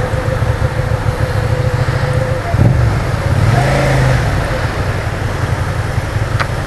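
Suzuki SFV650's V-twin engine running as the motorcycle rides through city traffic, with a steady low rumble of wind and road noise over the microphone.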